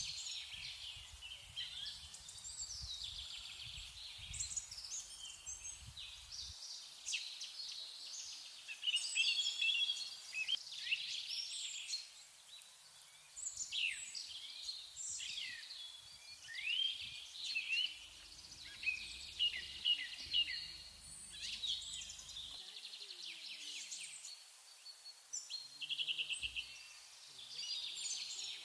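Small songbirds singing and chirping throughout, many short, quick notes and twittering phrases overlapping from several birds.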